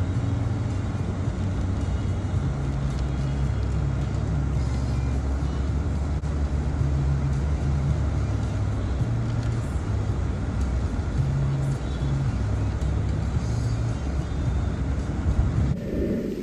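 Car driving, heard from inside the cabin: a steady low engine and road rumble with tyre noise. It cuts off abruptly just before the end.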